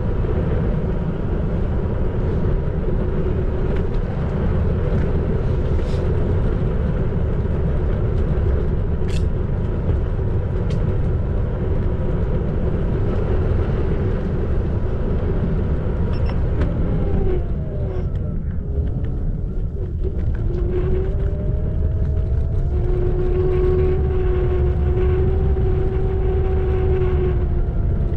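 Xiaomi Electric Scooter 4 Pro riding along: a steady low rumble of wind and tyres on the road, with the hub motor's thin whine over it. About two-thirds through, the whine dips and bends, then climbs back and holds steady as the speed picks up again.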